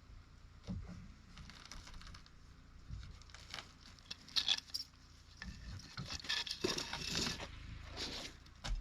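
Irregular scraping, crinkling and tearing with scattered light knocks, as material is pulled and handled during the removal of rotted wood in a camper.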